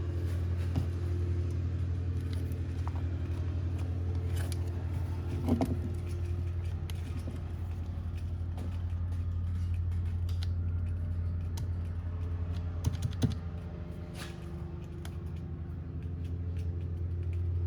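A steady low hum from the shop, with scattered small clicks and light knocks of handling, loudest twice about thirteen seconds in. No engine or starter motor is heard running.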